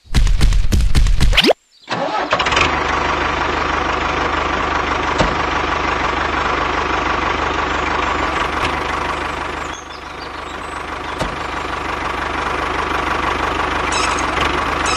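A tractor engine starts with a loud clattering burst, cuts off for a moment, then runs steadily. The running sound dips briefly about ten seconds in and comes back up.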